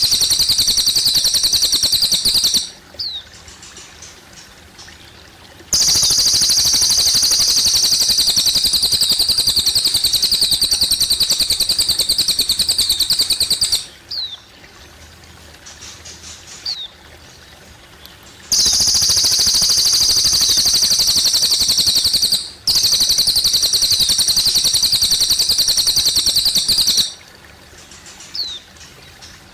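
Cililin bird singing long, rapid, high-pitched trills, each several seconds long, with short pauses holding a few brief chirps. Water trickles faintly underneath.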